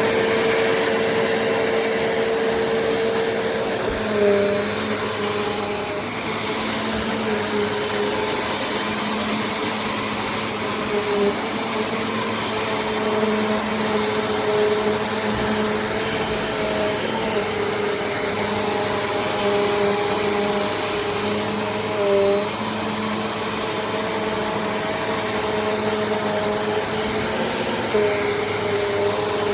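Bissell CleanView Compact upright vacuum running steadily at full power, with a whining motor tone whose pitch briefly wavers a few times as the load on it changes.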